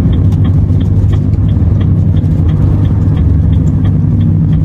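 Renault T480 truck's six-cylinder diesel engine running at steady load while driving, a constant low drone. A light, regular ticking, about three a second, sits over it.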